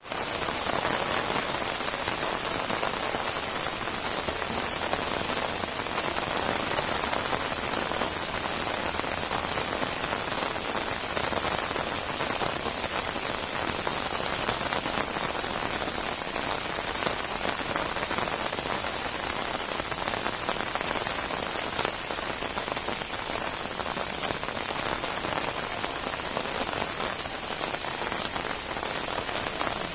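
Steady heavy rain pattering on a surface, a dense even hiss of many drops.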